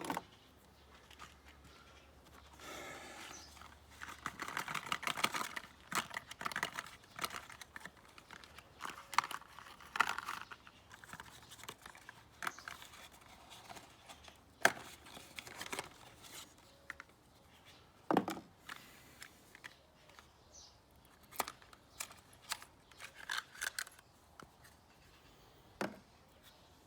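Hand work on a car engine while changing spark plugs: intermittent clicks, knocks and rustling of tools and plugs being handled, with a sharper knock around the middle and near the end.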